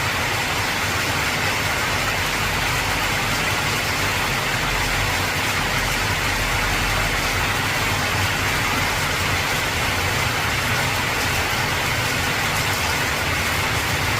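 Heavy rain drumming steadily on an old corrugated tin roof, an even loud hiss over a low steady rumble.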